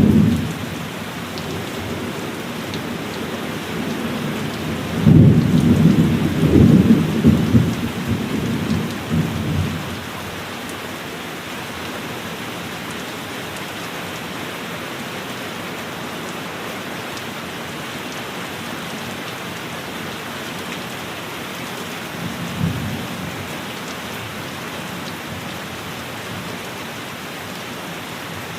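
Steady heavy rain on a cabin roof, with thunder: a loud rolling peal about five seconds in that rumbles on for several seconds, and a brief fainter rumble near the end.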